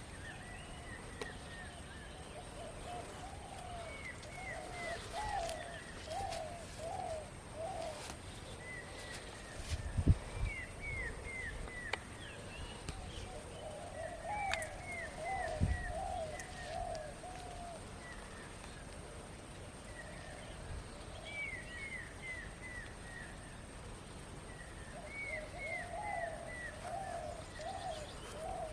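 Birds calling in repeated runs of short hooked notes every few seconds, a higher series and a lower warbling series, over faint outdoor background. A dull thump about ten seconds in and another near sixteen seconds are the loudest moments.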